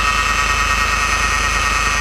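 Citroën C5 X7 2.2 HDi four-cylinder turbodiesel running with a steady, high-pitched whine of several held tones over a low rumble. This is the extraneous noise the car is making.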